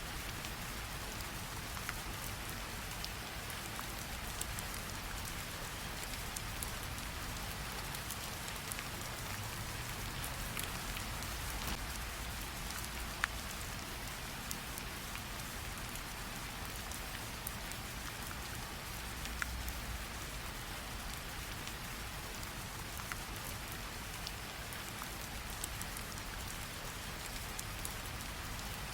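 Steady rain falling on a surface, with scattered drip ticks: a recorded rain sound effect.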